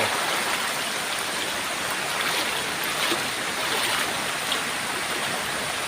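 Creek floodwater flowing fast across flooded parkland, making a steady rushing noise.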